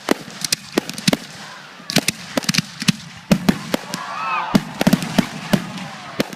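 Fireworks going off: a rapid, irregular run of sharp bangs and crackles, thickest about two seconds and five seconds in.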